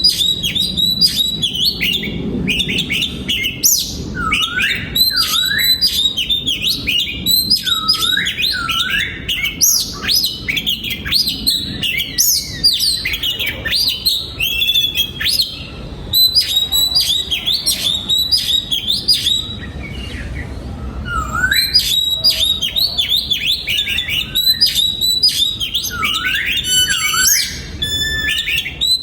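Oriental magpie-robin singing: a rapid, varied run of whistled phrases with swooping rising and falling notes, with a short lull about twenty seconds in.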